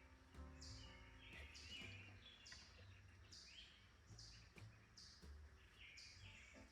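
Faint bird chirping: a short, high, falling chirp repeated evenly, a little more than once a second, over a quiet background.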